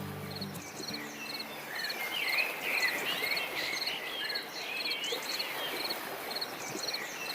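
Insects, crickets by their sound, chirping in short pulsed trills a little more than once a second, with birds twittering in the middle.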